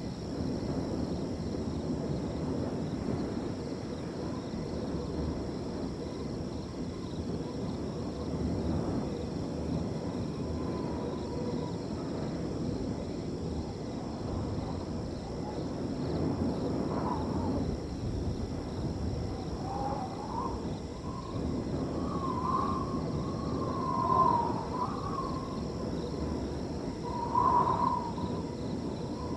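Wind blowing steadily through a field, with a faint high trilling of crickets. From about halfway through come several short hooting calls, the loudest near the end.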